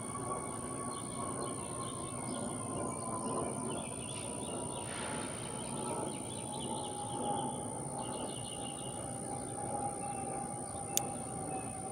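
Outdoor background noise with small birds chirping. Under it a faint long tone slides slowly down in pitch, and a single sharp click comes near the end.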